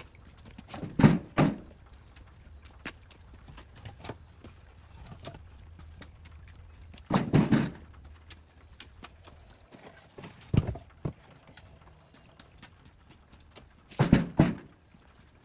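Loud hollow knocks, mostly in quick pairs, coming every few seconds, over a faint low hum that stops about two thirds of the way through.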